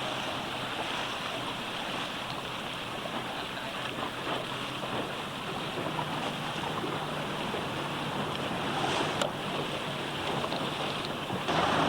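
Water rushing and splashing past a moving boat, with wind buffeting the microphone and a faint steady low hum underneath. A single sharp click sounds about nine seconds in.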